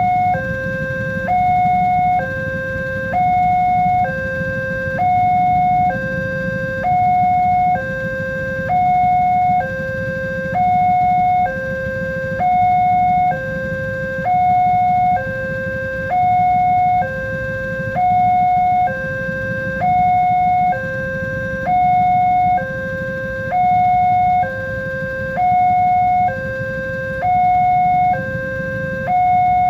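Railway level crossing warning alarm sounding, an electronic two-tone signal alternating between a high and a low tone about once a second, over a low steady rumble.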